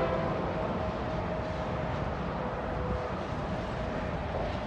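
Distant Union Pacific diesel locomotives heading a container train approaching, heard as a steady low rumble, with a few faint steady tones that fade out about three seconds in.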